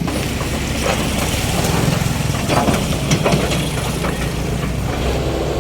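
A heavy vehicle's engine idling steadily, with a few faint knocks over it.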